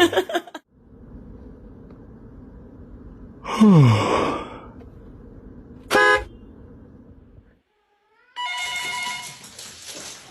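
A string of separate sounds over a steady hiss: a loud sweep falling in pitch, a short pitched blip, then a steady honk-like tone lasting about a second and a half near the end.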